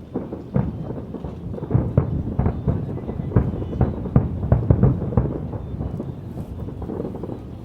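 Fireworks bursting in a rapid, irregular volley of bangs over a continuous low rumble. The bangs come thickest in the middle and thin out over the last couple of seconds.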